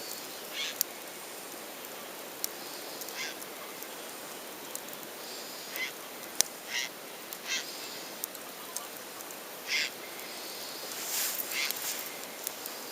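Wood campfire crackling, with a few sharp pops over a steady hiss and a scattering of short, harsh high bursts every second or two.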